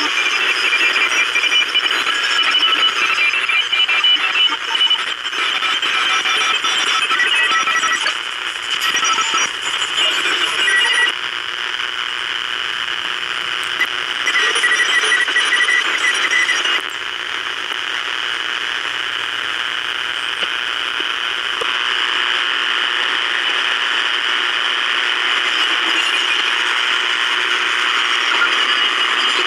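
Shortwave receiver audio from the 40 m and 20 m amateur bands: steady band hiss with many short beeping tones at several different pitches, like Morse or data signals. About 17 seconds in, the beeps thin out and a steadier, rougher noise takes over.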